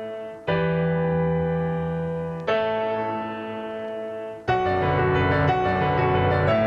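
Background piano music: slow sustained chords struck about every two seconds, then a fuller passage with more notes begins about four and a half seconds in.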